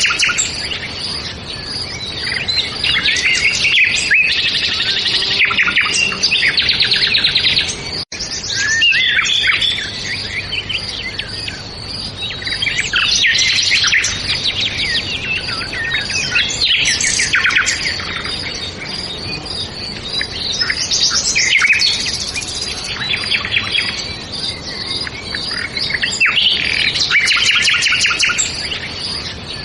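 Many songbirds chirping and trilling at once, a dense overlapping chorus. The sound drops out for an instant about eight seconds in.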